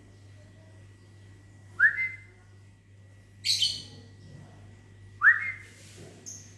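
A person whistles a short rising note twice, and a lovebird answers in between with a shrill chirping call, then gives a brief high chirp near the end.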